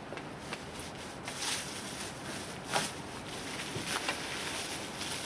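Packing wrap around a new propane furnace being handled and pulled off: rustling and crinkling with scattered small clicks, and one sharper crackle about three seconds in.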